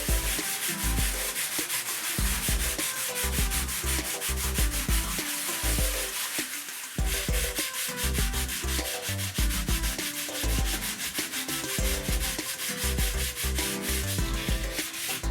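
Dried filler on a drywall surface being sanded with rapid, even back-and-forth strokes, with a short pause about seven seconds in.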